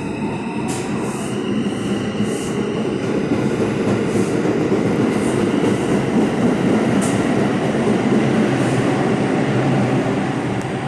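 R142 subway train pulling out of the station: a loud steady rumble of wheels on rail and running gear, with repeated wheel clicks, growing louder over the first few seconds and easing slightly near the end.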